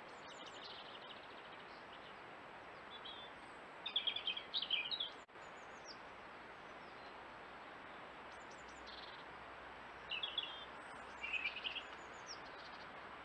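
Small woodland birds chirping and trilling in short phrases over a steady hiss from the trail camera's microphone. The loudest phrases come about four seconds in and again around ten to twelve seconds.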